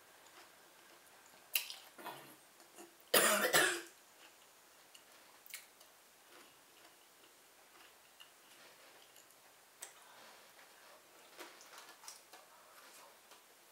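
Close-up eating sounds: chewing with wet mouth clicks and smacks scattered throughout, and one loud short burst about three seconds in.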